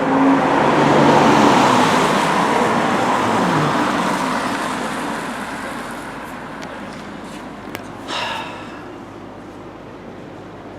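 A road vehicle passes close by at the bus stops and drives off: a rushing engine and tyre noise that swells in the first couple of seconds, then fades away. A click and a brief sharper sound come about eight seconds in.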